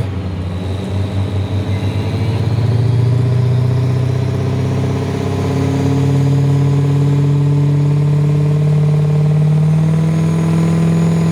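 A drag truck's engine running loud, pulsing unevenly for the first couple of seconds, then smoothing out as its pitch climbs slowly and steadily.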